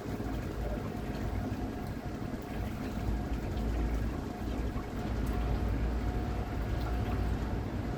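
Water churning and splashing along the hull of a small boat under way, with wind buffeting the microphone in gusts. A thin steady whine runs underneath.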